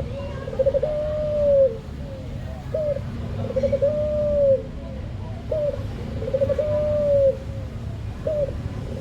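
Puter (Barbary dove) cooing, its call repeated about every three seconds. Each call is a short rising note, a quick trill of pulses, then a long held coo that drops in pitch at the end.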